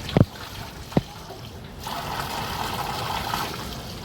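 Water trickling and splashing, with two sharp knocks in the first second. The water sound grows fuller about two seconds in.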